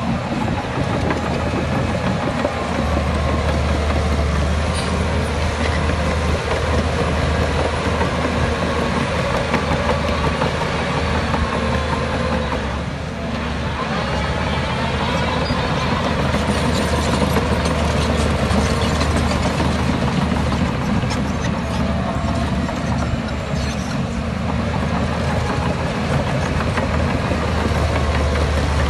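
Heavy diesel engines of earthmoving machines running steadily at work, with a deep, continuous drone. The sound eases briefly about halfway through, then comes back up.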